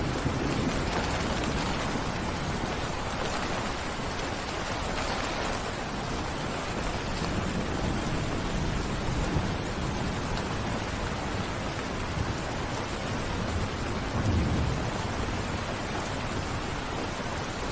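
Heavy rain falling steadily, with low rolls of thunder: a faint one near the start and a stronger one near the end.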